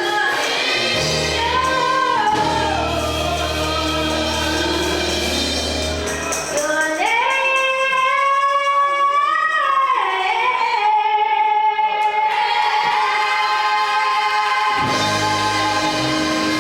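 Gospel singing with the choir over a band. Midway the bass drops out under a long, high held note, and comes back near the end.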